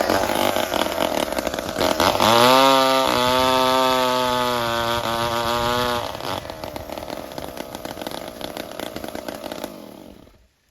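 Chainsaw cutting wood. About two seconds in, the engine revs up to a high steady whine and holds it for about four seconds, then drops back to a rougher, quieter run, and the sound cuts off abruptly near the end.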